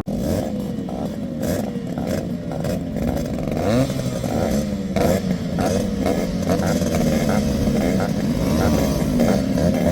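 Several two-stroke Yamaha RX motorcycles revving together, their engine pitches rising and falling over one another. The sound starts abruptly and grows slightly louder.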